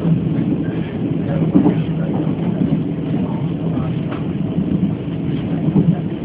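Chu-Kuang express passenger train running along the line, heard from inside the carriage: a steady low rumble of wheels on rails and the moving coach.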